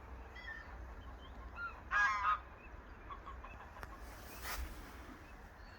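Waterbirds calling across a lake: scattered short calls, with one loud honking call about two seconds in.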